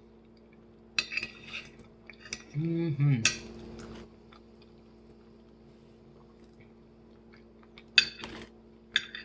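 Cutlery clinking and scraping against a plate in several short clatters, with a brief low vocal sound in between.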